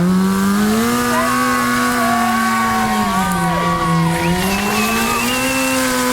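Sport motorcycle engine held at high, steady revs, sagging briefly twice and picking back up, as during a stunt riding routine.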